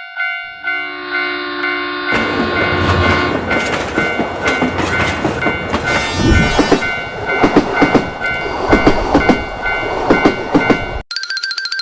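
Railroad crossing bell dinging about twice a second. A train horn sounds about a second in, then a train passes with a loud rumble and clickety-clack of wheels over rail joints. Near the end it cuts suddenly to a faster ringing tone.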